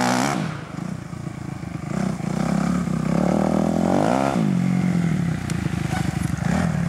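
Kawasaki KX250F four-stroke single-cylinder motocross engine being ridden hard: it revs up at the start, drops off throttle and goes quieter for a second or so, climbs to another rev peak about four seconds in, then runs on at a fairly steady high speed.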